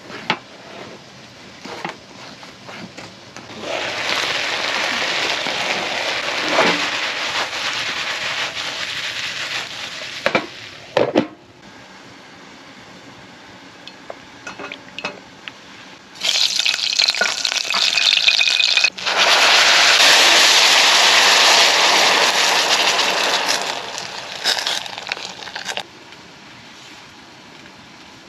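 A few knife taps on a wooden cutting board, then food sizzling in hot oil in a steel pot on a small camping gas stove, in two long stretches with a quieter gap between them. The second stretch is the louder.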